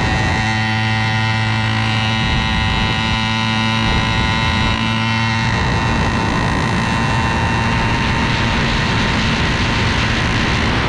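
Pexmor 80cc two-stroke bicycle engine kit with an expansion-chamber exhaust, running at a steady, even note.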